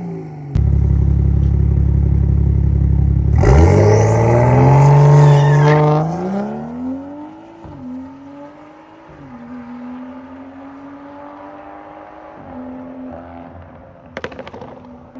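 BMW M235i engine revved in sport mode. It is held loud for about three seconds, then revs up sharply and falls back, gives a couple of short blips, and settles to a steady idle. Near the end the exhaust lets out a short burst of crackling pops on its own.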